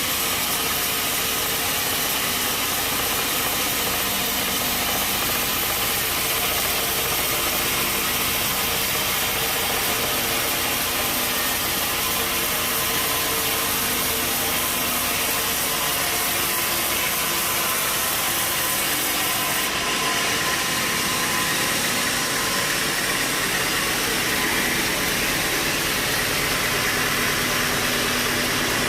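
Sawmill machinery running steadily: constant engine and machine noise, with a slight change in tone about twenty seconds in.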